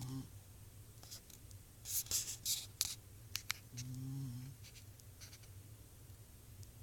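Sleeping dog snoring: one low, pitched snore about four seconds in, and the tail of another at the very start. Between about two and three and a half seconds in come louder scratchy rustling and a few sharp clicks.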